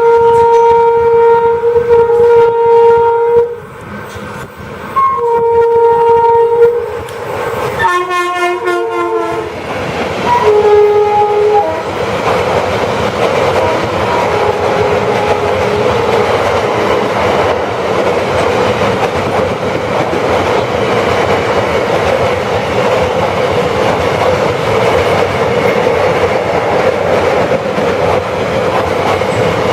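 WAP-4 electric locomotive sounding its horn in several long blasts as it approaches and passes, the horn's pitch dropping as it goes by. After about twelve seconds the 23-coach express rushes past at speed, wheels clattering over the rail joints.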